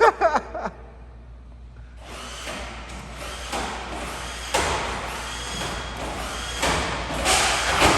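Traxxas Hoss 4x4 VXL RC truck's brushless electric motor whining and its tyres running as it drives hard, starting about two seconds in, with a few sharp knocks as the truck lands or hits obstacles.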